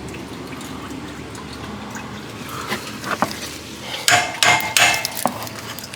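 Metal wrenches clinking and knocking against metal, a few sharp clanks with a short ring in the second half, over a faint steady trickle of coolant draining.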